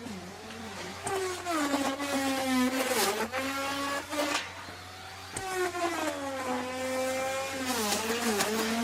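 Electric wood router running and cutting wood. Its motor pitch repeatedly sags and recovers as the bit bites into the wood, and the motor is quieter for about a second in the middle.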